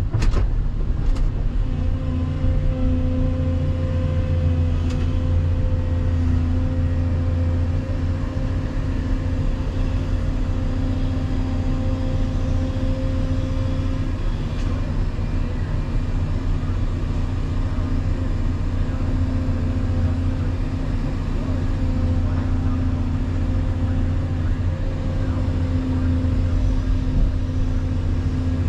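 Volvo EC220EL excavator's diesel engine and hydraulics running steadily under load while digging and loading, with a few short knocks about a second in.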